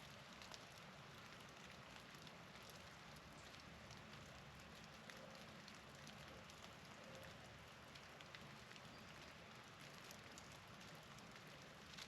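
Faint, steady patter of falling precipitation: many small, irregular ticks over a soft hiss.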